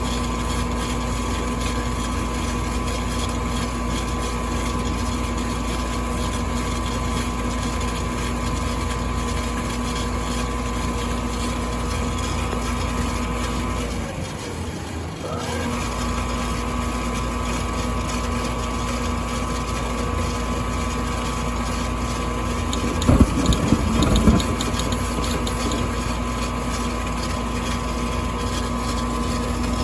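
Furnace running with a steady motor hum that drops out briefly about halfway, its pitch falling and then rising again as it comes back. A little after two-thirds of the way through there is a quick cluster of several sharp clicks, the click that marks the furnace's problem.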